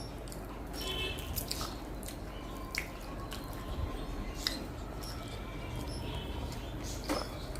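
Close-miked eating sounds: wet, squishy chewing and mouth smacks with a few sharp clicks, over a steady low hum.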